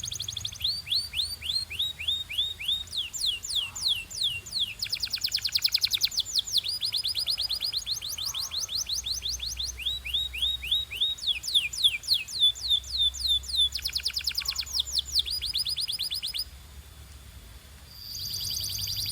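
Domestic canary singing: long runs of rapid, repeated downward-sweeping whistled notes, each run at its own speed and pitch, with a brief lull near the end before the song starts again.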